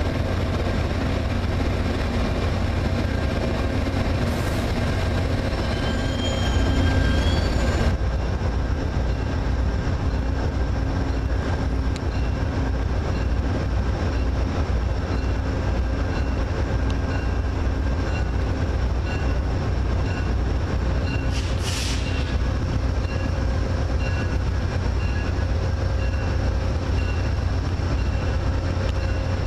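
Train running with a steady low rumble and constant hum. A short high squeal comes about six seconds in, and a brief hiss of air about twenty-two seconds in.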